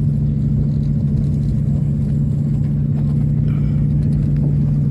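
Aircraft engine drone heard from inside the passenger cabin: a loud, steady, deep hum.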